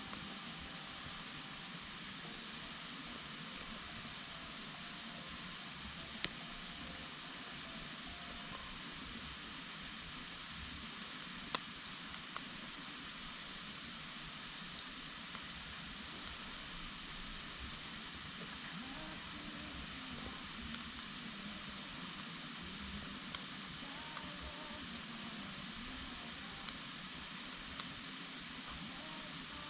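Wood campfire burning with a steady hiss, broken by occasional sharp crackles and pops, the loudest about six seconds in and again near twelve seconds.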